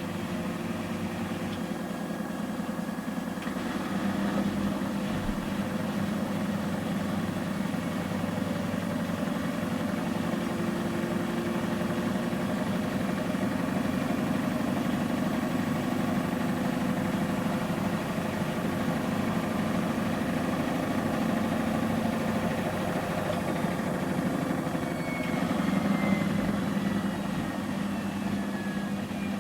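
Samsung Series 5+ AI SmartThings washing machine in its intermediate spin at 800 rpm: a steady motor and drum hum. A faint high whine slides down in pitch near the end.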